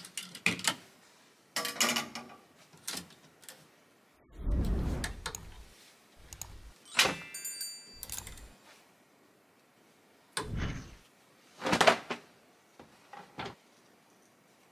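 Clothes hangers clicking and scraping on a wardrobe rail while garments rustle as trousers are hung up, in a string of short separate handling noises. A short ringing tone sounds just after the middle.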